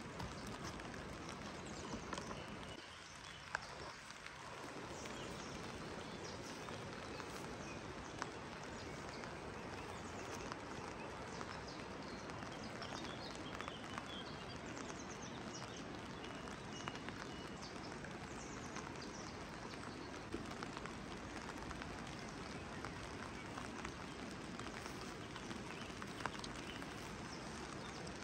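Steady rain, an even hiss with scattered sharper taps of drops landing close by at irregular moments. The hiss dips briefly about three seconds in.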